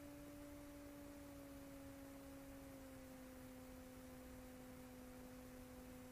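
Faint, steady drone of two pure tones an octave apart, sliding slightly lower in pitch: the Aerotechnik SportStar ultralight's engine and propeller heard subdued in the cabin as power is eased back for the approach.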